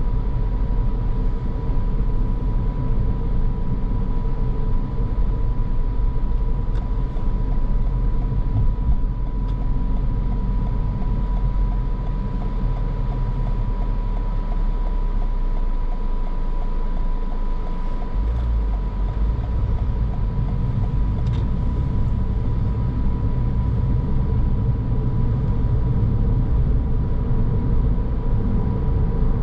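Car driving along: a steady low rumble of engine and tyre noise, with a faint steady whine running under it. About two-thirds of the way through, the low rumble changes character.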